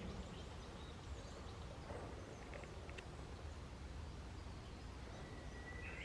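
Faint outdoor ambience with a steady low rumble, and scattered wild bird chirps and short calls, with a brief call near the end.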